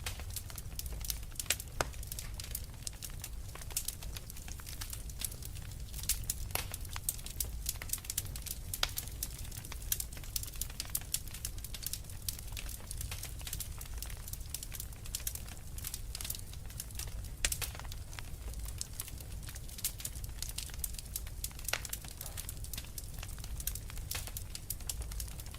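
Log fire in a fireplace crackling, with frequent irregular sharp pops and snaps over a steady low rumble of burning.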